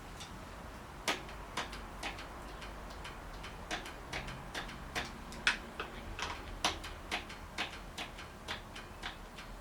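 Light, sharp clicks and taps, irregular, a few a second, from handling the brake bleeding parts of a hydraulic bicycle brake, over a faint steady hum.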